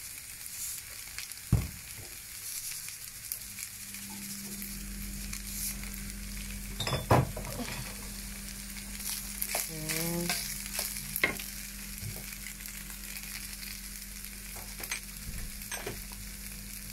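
Egg-and-tomato fried rice sizzling in a frying pan while a wooden spoon stirs and scrapes it, with scattered knocks of the spoon against the pan. A steady low hum comes in about four and a half seconds in.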